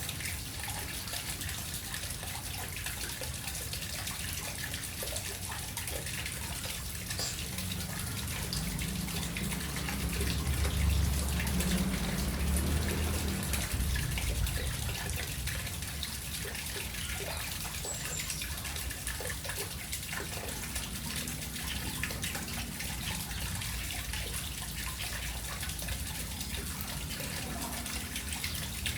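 Steady running, splashing water, with a louder low rumble for a few seconds in the middle.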